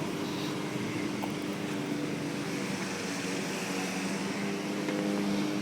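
Vehicle engine running steadily at a constant speed, a low even hum.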